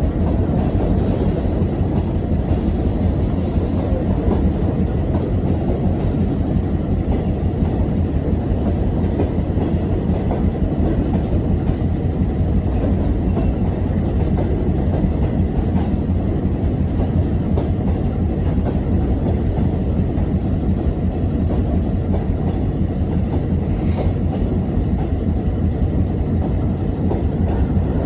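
Freight train hauled by a TEM18DM shunting diesel locomotive passing by, with a steady noise of wagon wheels running over the rails.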